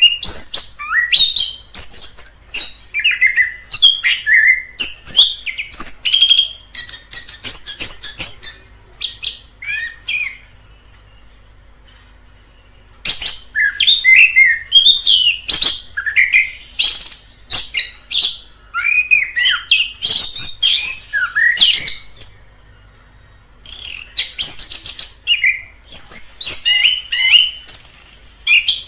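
Orange-headed thrush singing a loud, rapid, varied song of whistled and chattering phrases, breaking off twice for a couple of seconds.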